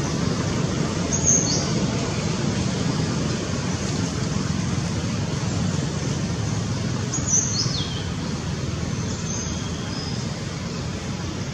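A bird chirping twice, short high notes falling in pitch, about a second in and again about seven seconds in, over a steady low rumble of outdoor background noise.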